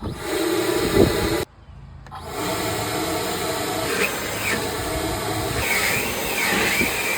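Leaf blower running at full blast, blowing on putty-filled holes and a cut in a board. It stops abruptly about a second and a half in, then starts again about half a second later and runs steadily.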